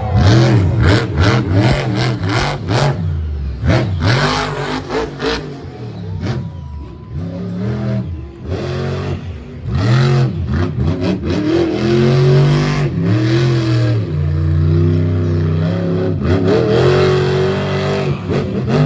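Monster truck engine revving hard, its pitch rising and falling again and again as the throttle is worked, with many sharp cracks and bangs mixed in, most of them in the first several seconds.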